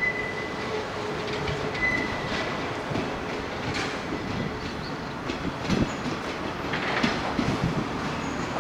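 Electric train running on the rails, the wheels clacking over rail joints at irregular intervals over a steady rumble, with a faint high squeal in the first two seconds.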